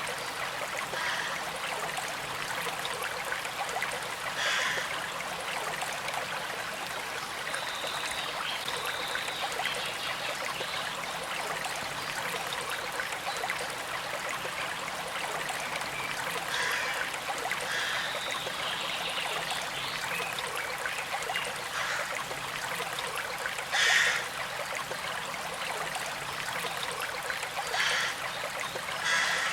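Small creek flowing and trickling steadily, with a few brief louder moments, the loudest about 24 seconds in.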